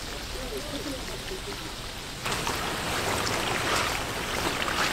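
Food frying on a hot cooking surface, with faint voices behind. About two seconds in the sizzle turns suddenly louder and brighter.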